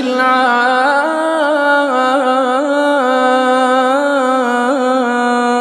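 A man reciting the Quran in melodic tajweed style, holding one long ornamented vowel with small wavering turns in pitch.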